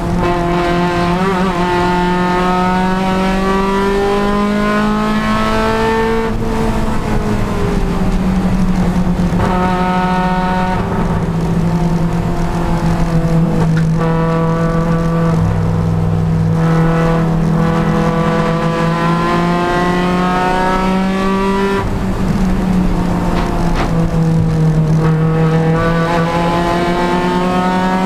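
Honda Civic Si race car's engine under racing load, its pitch climbing steadily and then dropping back several times as it is driven hard through the gears and slowed for corners.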